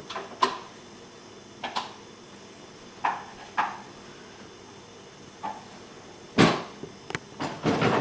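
A handful of sharp clicks and knocks over a faint steady hum, the loudest about six and a half seconds in, with several more close together near the end.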